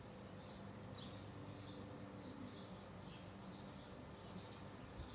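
A small bird chirping over and over, short high chirps about two a second, faint over a low steady hum.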